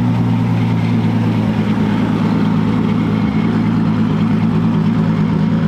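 A car engine idling loudly and steadily, a low even hum that holds one pitch without revving.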